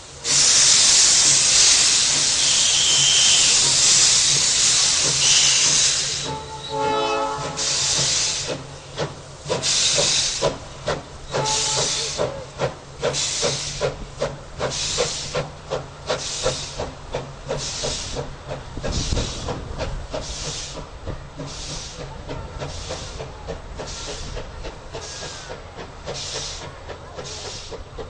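Steam locomotive: a loud, steady hiss of escaping steam, then a short whistle blast about six seconds in. After the whistle its exhaust chuffs start slowly and gradually quicken as it gets under way.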